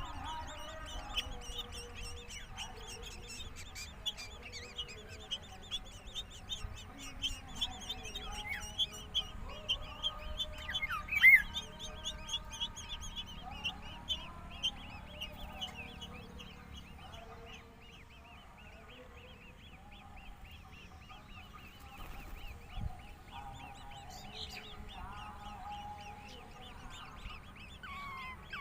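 Birds calling: a dense run of short, high chirps over lower, longer calls, thinning out about two-thirds of the way through. One much louder sharp call rises in pitch about eleven seconds in.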